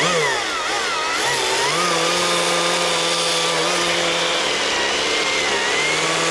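Small two-stroke chainsaw engine running at full throttle. Its pitch dips about a second in, as it takes load in the cut, then holds steady.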